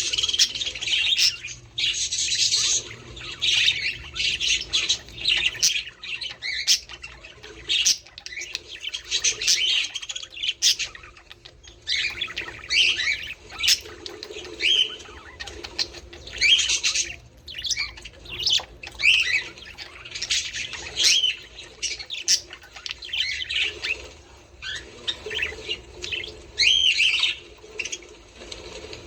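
A flock of budgerigars chattering: a dense, unbroken stream of short chirps, warbles and squawks.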